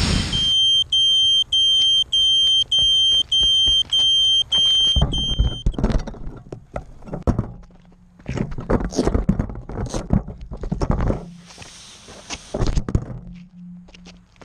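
Electronic buzzer beeping in a steady run of about nine long, high-pitched beeps, then stopping. Irregular thumps and knocks follow.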